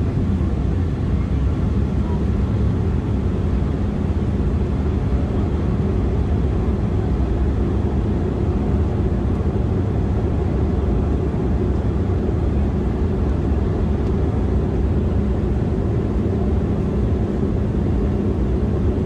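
Steady cabin noise of an Embraer E175 jet airliner in flight: a constant low rumble of engines and airflow with a faint steady hum.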